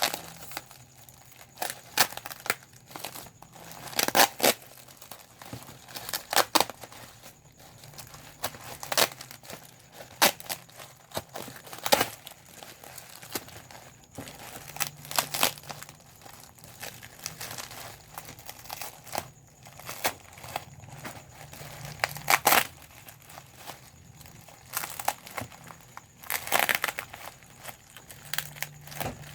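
Plastic bubble wrap being popped by hand: sharp, irregular pops, sometimes several in quick succession, between soft crinkling of the plastic sheet.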